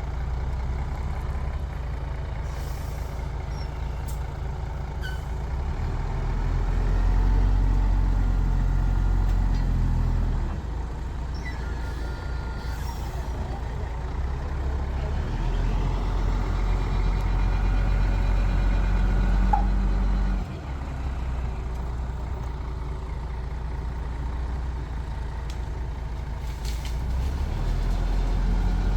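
Heavy diesel earthmoving machinery running, the deep engine note swelling louder under load three times and settling back between.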